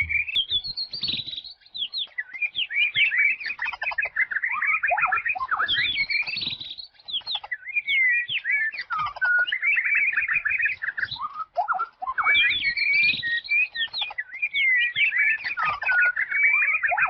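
Wild songbirds singing in a dense, continuous stream of rapid chirps, trills and whistled notes, with short pauses about seven and twelve seconds in.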